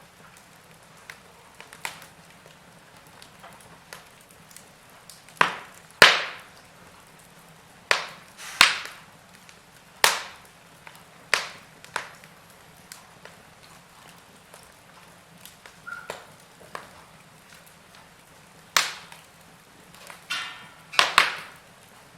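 Wood fire crackling in a fireplace: irregular sharp pops and snaps from burning logs over a faint steady hiss, the loudest pop about six seconds in, with a brief fizzing sputter near the end.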